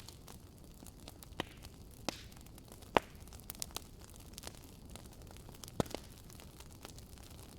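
Wood fire crackling: a steady low hiss with scattered sharp pops, the loudest about three seconds in and another just before six seconds.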